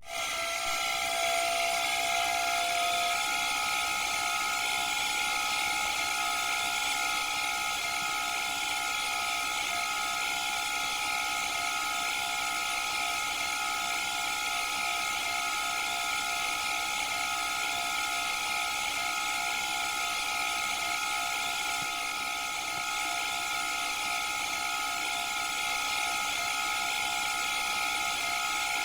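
Candy washing machine spinning at high speed: a steady motor whine of several high tones over a rushing hiss, which cuts in suddenly and settles within the first few seconds.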